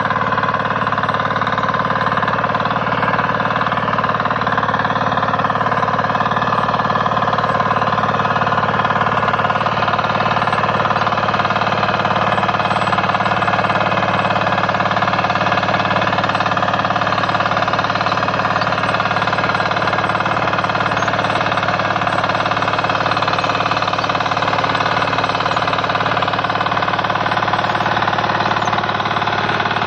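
KisanKraft 406D power tiller's 418 cc single-cylinder diesel engine running steadily, with a steady whine over the engine note.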